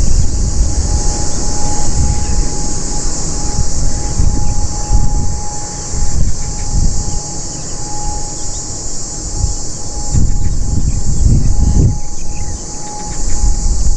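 Wind buffeting the microphone in uneven gusts, over a steady high-pitched insect chorus with one thin whining tone.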